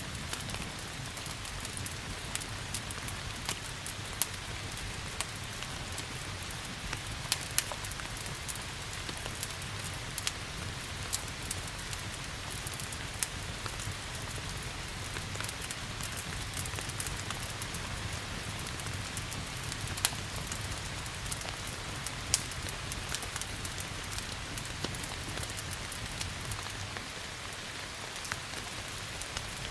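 Steady rain with many scattered sharp crackles from a fireplace fire. A low rumble runs underneath and fades near the end.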